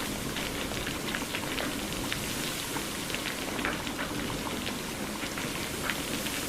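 Steady rain, with the separate hits of many individual drops sounding throughout.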